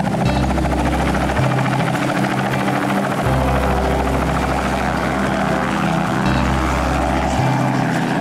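Small two-bladed helicopter running close by, with a rapid, steady rotor chop over the engine noise, as it lifts off and hovers just above the grass.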